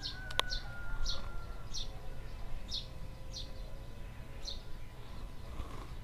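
A small songbird chirping: about seven short, high single chirps, a little over one a second, over a low steady outdoor rumble. A sharp click comes about half a second in.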